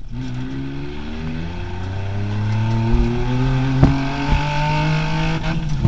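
Rally 4x4's engine heard from inside the cab, running under changing load as the car slows on a dirt track, its note shifting with the gears. Two sharp knocks come about two-thirds of the way through.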